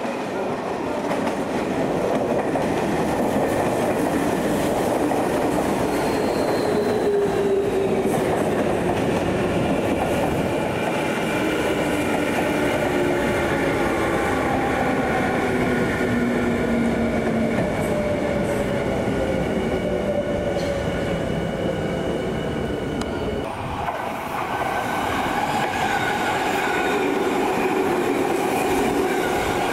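Electric commuter train running close by, wheels on rail, with its motor whine slowly falling in pitch as it slows. About two-thirds of the way through the sound changes abruptly to a different set of steady tones.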